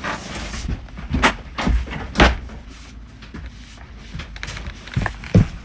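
A few sharp knocks, the loudest about two seconds in, with two more near the end, over a steady low hum.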